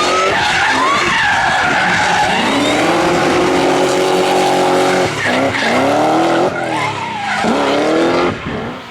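Hill-climb race car engine revving hard: the pitch climbs, holds steady, then drops and climbs again three times in quick succession as the car shifts up through the gears.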